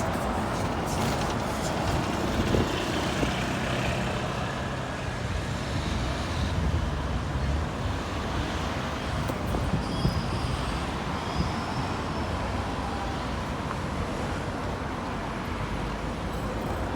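Road traffic passing: steady engine rumble and tyre noise from buses and cars, with the rumble swelling about halfway through as a heavier vehicle goes by.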